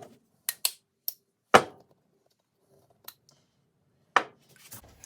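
Sharp, irregular clicks and knocks of the metal parts of a pneumatic flange tool being handled and set down during disassembly, about eight in all, the loudest about a second and a half in.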